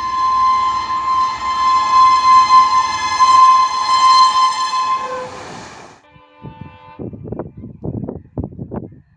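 Indian Railways diesel locomotive's horn sounded in one long blast of about five seconds, fading away, followed by a rapid, uneven clatter of train wheels passing at speed with a faint horn in the background.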